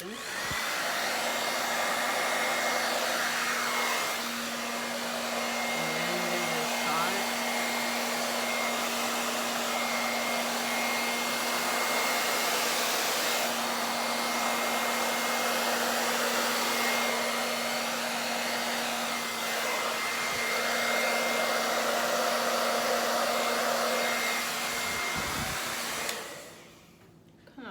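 Handheld hair dryer running steadily, blowing wet fluid acrylic paint across a canvas in a Dutch pour, with a low motor hum and a faint high whine over the rush of air. It switches off about a second and a half before the end.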